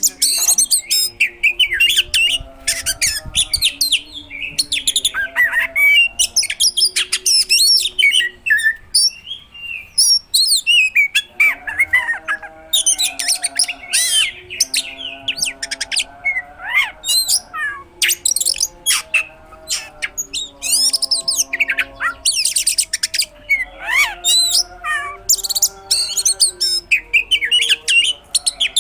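Oriental magpie-robin singing a long, rapid, varied song of fast chirps, whistled glides and trills, packed with mimicked phrases of other birds, with only brief pauses.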